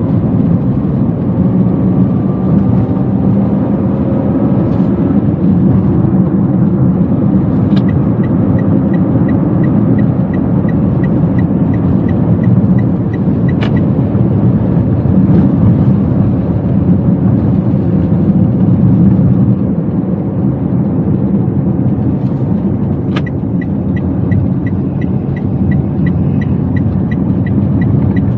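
Inside a Toyota Wigo driving: steady engine and road rumble. In two stretches of about five seconds, the turn-signal indicator ticks at an even pace, each run opened and closed by a sharper click.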